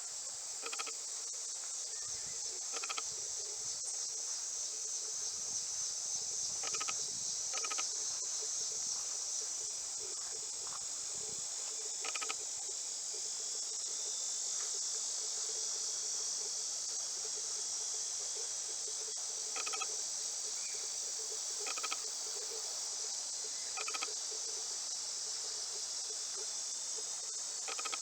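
Steady high-pitched insect chorus, with short chirps repeating every couple of seconds.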